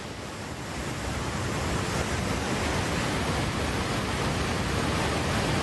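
Rushing water of a river in flash flood: a steady, dense rush of noise that grows louder over the first two seconds and then holds.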